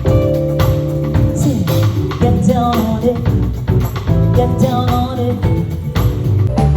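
Live band playing, with a drum kit keeping a steady beat under bass and guitar, and a melody line that slides between notes.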